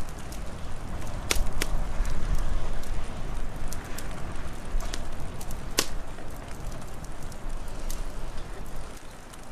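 Wood fire crackling, with several sharp pops and snaps, over a steady low rumble of wind that swells in the first few seconds.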